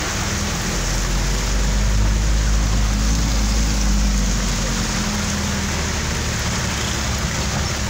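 Heavy rain drumming steadily on a car's roof and windscreen, heard from inside the cabin, over the low hum of the car's engine and tyres on the wet road. The hum swells slightly a couple of seconds in and eases again a little later.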